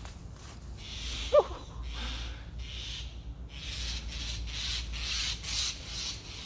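Rustling and rubbing from handling, with one short, loud call falling in pitch about a second and a half in, from a fledgling bird.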